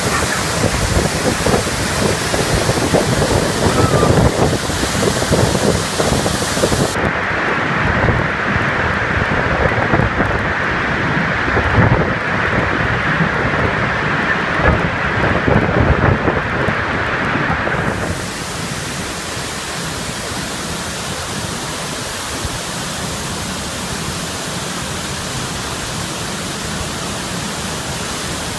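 Waterfall rushing: a loud, steady roar of falling water. It turns duller about a quarter of the way in and becomes a slightly quieter, even rush a little past halfway.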